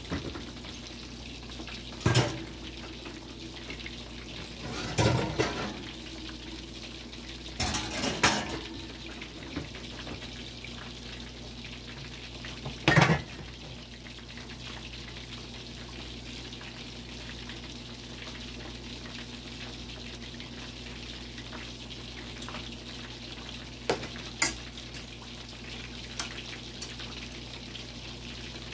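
Chicken leg quarters frying in hot oil, a steady sizzle throughout, broken by several sharp clanks and knocks of cookware and utensils, the loudest about halfway through.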